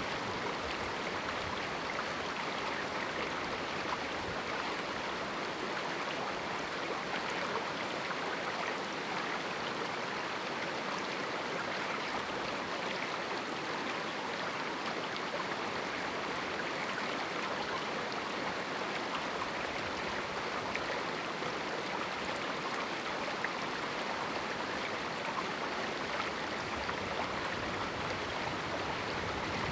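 River water running over rocks in a small canyon: a steady, even rushing with no breaks.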